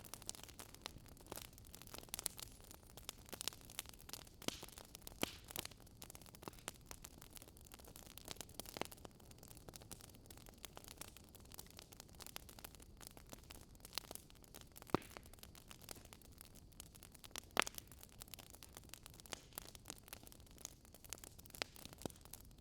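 Campfire crackling: wood burning with irregular sharp pops and snaps over a soft steady hiss.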